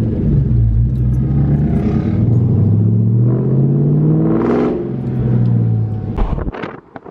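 Muffler-deleted 2020 Honda CBR500R parallel-twin engine running loud while riding. It revs up about three seconds in, then eases off, and the sound drops away sharply near the end.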